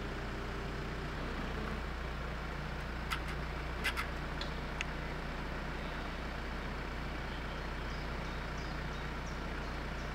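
Jeep 4x4 engines running at low revs as the vehicles crawl slowly, a steady low drone. A few sharp clicks come around three to five seconds in.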